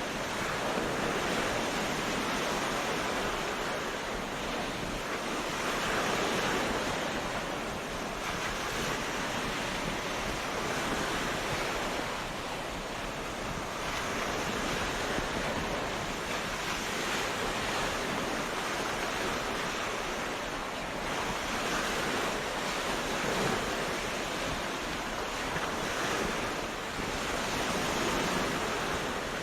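Sea surf washing onto a beach: a continuous rush of waves that swells and eases every few seconds.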